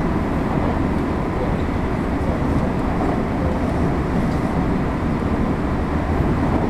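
Running noise heard inside a JR West 225 series 0 electric train travelling at speed: a steady, even rumble of the wheels on the rails and the car body.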